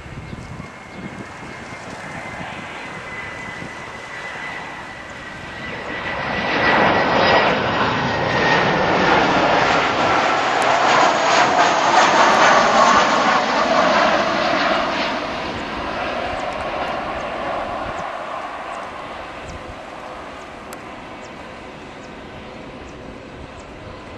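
Boeing 737-500 jet airliner passing by, its twin CFM56-3 turbofans building to a loud peak about halfway through and then fading away, with a whine that slowly falls in pitch as it approaches.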